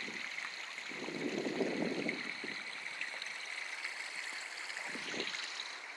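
Runoff water flowing through a stone-banked ditch beneath a log driveway crossing, a steady rush that swells for a second or so about a second in.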